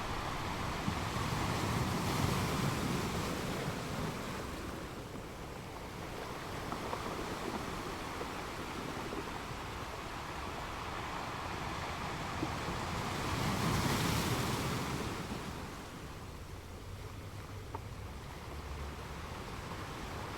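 Sea waves washing onto a shore, a steady rush that swells as a wave breaks about two seconds in and again near fourteen seconds, easing off in between.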